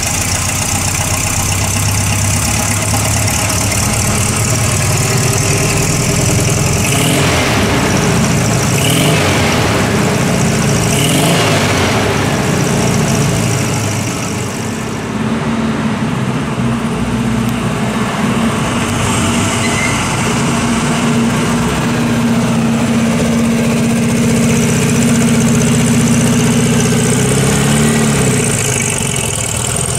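Volkswagen 1600 cc air-cooled flat-four engine running just after starting: it is revved three times about a quarter of the way in, then idles steadily. Near the end the engine note rises as the car pulls away.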